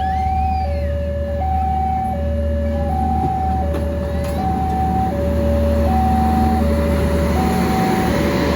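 Railway level-crossing warning signal sounding two alternating tones, high then low, each held for under a second and repeating steadily. A steady low engine rumble runs underneath, and broader rushing noise builds in the second half.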